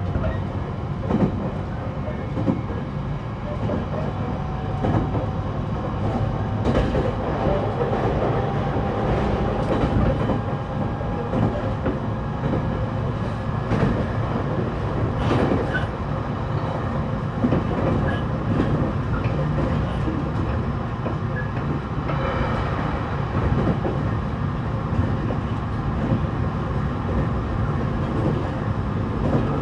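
Running noise heard inside the motor car of a JR East E721 series electric train under way: a steady rumble of wheels on rail with scattered clicks of rail joints, and a faint whine that rises slightly in the first half.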